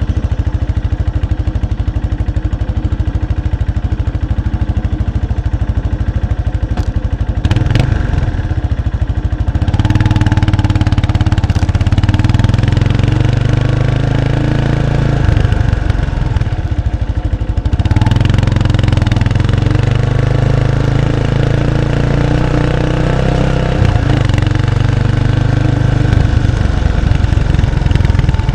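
Exhaust note of a 1993 Kawasaki Estrella's 250 cc single-cylinder engine through its stock muffler, heard close up from the rear. It runs continuously and grows louder and fuller about ten seconds in, eases off briefly around sixteen seconds, then picks up again.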